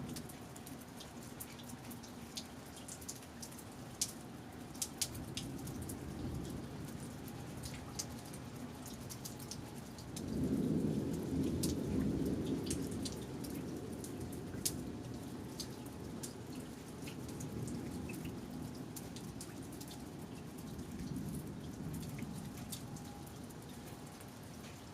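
Thunderstorm: rain falling, with scattered drops ticking sharply close by, under rolling thunder. The thunder swells several times, loudest for about three seconds starting about ten seconds in.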